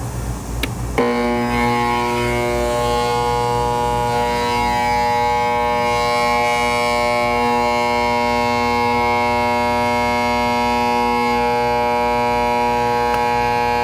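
A click, then an Intex pool pump's motor humming loudly and steadily without starting, which the owner takes for a locked rotor, perhaps from a bad start capacitor.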